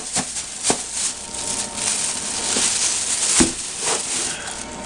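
Food containers and packaging being handled, rustling, with a few sharp clicks and knocks; the strongest is a dull knock about three and a half seconds in.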